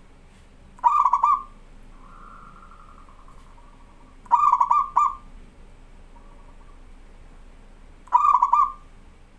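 Zebra dove (perkutut) cooing: three short phrases of quick coo notes, about three and a half seconds apart. A fainter, drawn-out note follows the first phrase.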